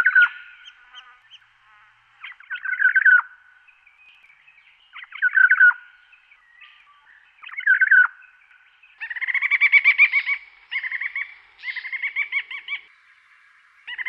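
Songbird singing: a short phrase that drops in pitch, repeated about every two and a half seconds, then from about nine seconds in, faster runs of rapidly repeated notes.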